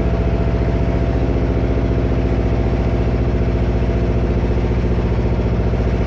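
Klotok river taxi's single-cylinder diesel engine running at a steady speed, with a fast, even pulsing beat.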